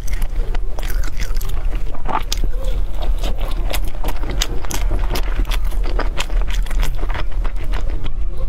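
Close-up chewing of a pan-fried chive dumpling, many short crisp clicks and wet mouth sounds, over a steady low hum.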